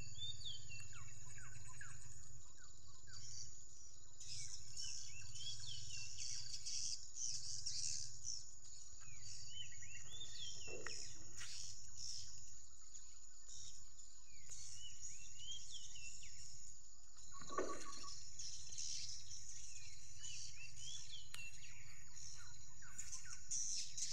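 Swiftlets chirping: bursts of quick, high twittering calls that come back about every five seconds, over a steady high-pitched tone and a low hum. Two short, lower sounds break in, about eleven and seventeen seconds in.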